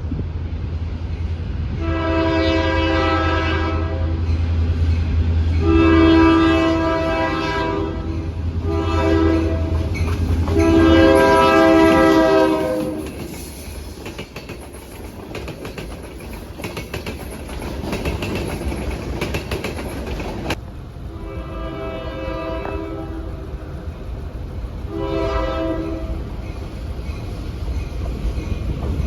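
Diesel locomotive's multi-tone air horn sounding the grade-crossing signal (two long blasts, a short one, then a long one) over the low drone of its engine. Then wheels clicking over rail joints as the train passes, and two more horn blasts near the end.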